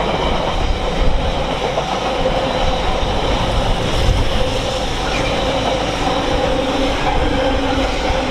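Partly loaded container freight train's wagons rolling past steadily on the rails.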